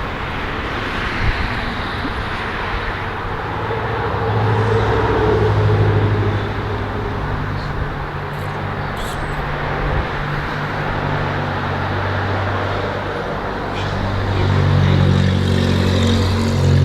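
Car engine running under a steady haze of road and traffic noise. The low engine note swells twice, about four seconds in and again near the end.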